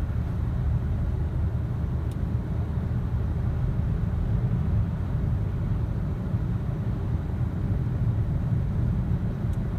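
Steady low rumble of a car driving on a snowy road on Michelin CrossClimate 2 tyres, heard from inside the cabin: tyre and road noise with the engine underneath. Two faint clicks come about two seconds in and near the end.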